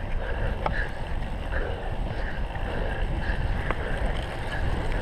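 Wind buffeting the camera microphone over the rumble of a cyclocross bike riding rough ground, with a faint sound repeating somewhat under twice a second and a few sharp clicks from the bike.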